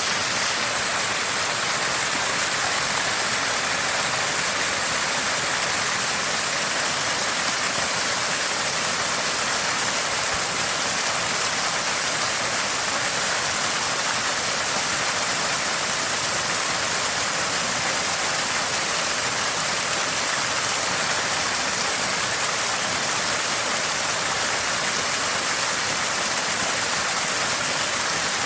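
Water gushing from a small spring and splashing in a constant, steady gurgle.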